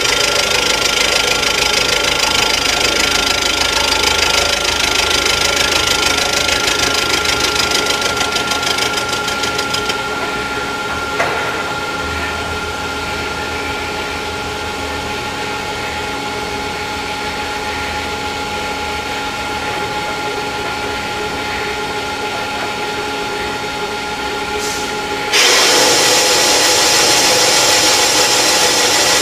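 Rottler F90Y CNC machining centre cutting metal during a water hole repair: a steady machine whine with a fast rattle of the cutting tool. Partway through the cutting noise drops away and leaves the machine humming, then it comes back suddenly and louder near the end.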